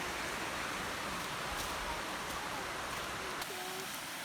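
Steady rush of running and falling water from a waterfall and river. The rushing changes abruptly a little over three seconds in and becomes thinner in the low end.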